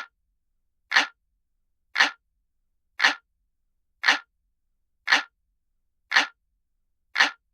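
Clock ticking sound effect: single sharp ticks about once a second, eight in all, with dead silence between them.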